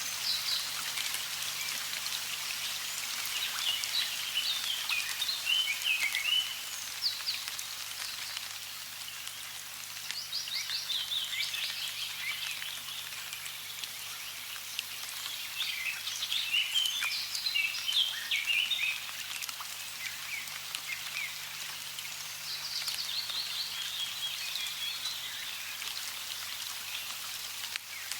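Steady rush of running water with songbirds singing over it in short bouts of quick, chirping notes every few seconds.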